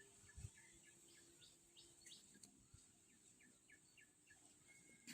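Near silence: faint outdoor ambience of small bird chirps, many short calls scattered throughout, over a steady high hiss.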